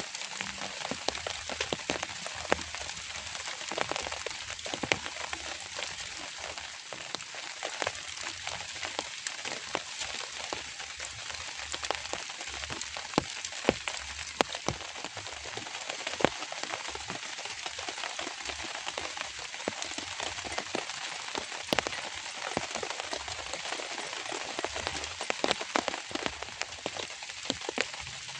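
Light rain falling steadily: a dense patter of many separate drop ticks over a soft hiss.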